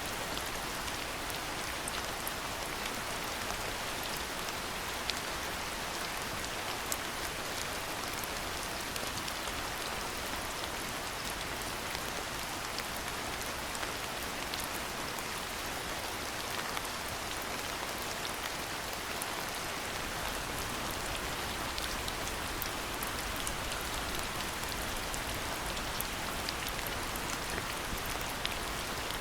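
Steady rain falling, an even hiss sprinkled with the light ticks of individual drops striking surfaces.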